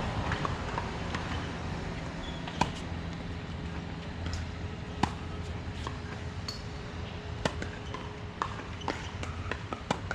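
Sharp knocks of a ball being struck. The four loudest come about two and a half seconds apart, with lighter knocks between them, over a steady low background rumble.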